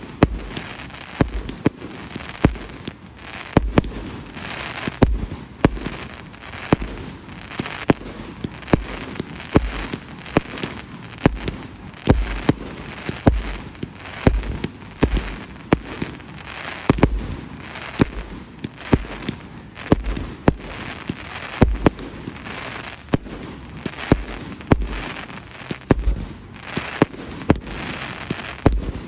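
Fireworks display with aerial shells bursting in quick succession: sharp bangs about one or two a second, with a continuous hiss between them.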